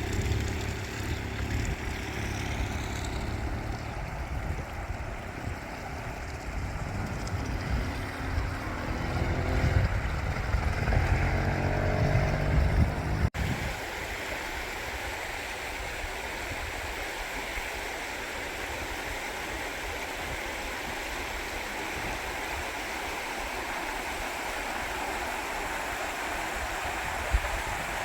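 A motor vehicle running and passing, with rushing water underneath, for roughly the first half. After an abrupt cut, a steady rush of fast-flowing floodwater.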